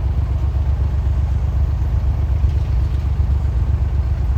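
A vehicle engine running steadily at a low, even drone, with no change in speed.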